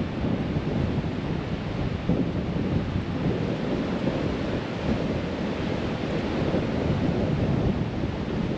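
Strong, gusty storm wind blowing hard and buffeting the microphone: a loud, unbroken low rumble with no let-up.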